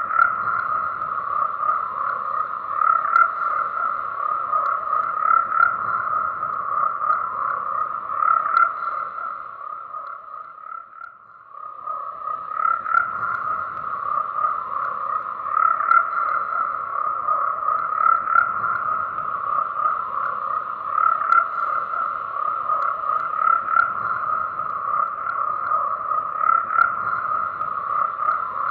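A dense chorus of many frogs calling at once, a continuous pulsing trill. It fades briefly about ten seconds in, then picks up again.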